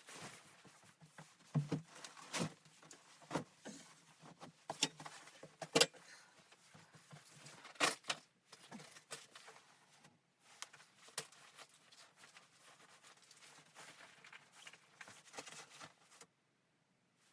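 Irregular knocks, clicks and clatter of objects being handled, with softer rustling between them; the sounds stop suddenly about a second before the end.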